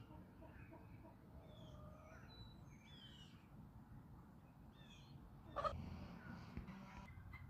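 Faint songbirds chirping over a low outdoor rumble. One louder, short bird call comes about five and a half seconds in, from a hen clucking or a crow calling.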